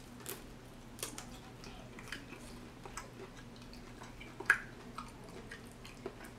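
A person biting and chewing a chicken wing: scattered short wet mouth clicks, one louder about four and a half seconds in.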